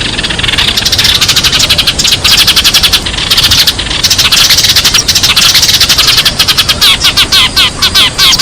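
Sparrows chirping in a fast, dense stream of short chirps, about ten a second, broken by brief pauses; near the end the chirps turn into sharper downward-sliding notes.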